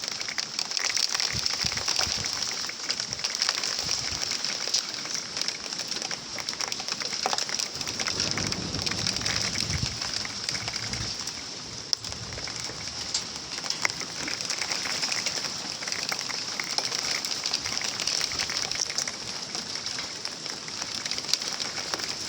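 Heavy rain pattering on surfaces: a steady, dense hiss full of small ticks. A low rumble joins it for a few seconds around the middle.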